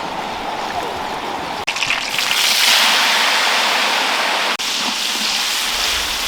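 Steady hissing noise with no clear pitch, broken by abrupt cuts about one and a half seconds in and again about four and a half seconds in; it is loudest and brightest between those cuts.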